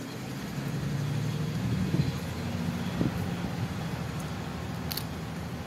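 Car engine idling, a steady low hum, with two light knocks about two and three seconds in.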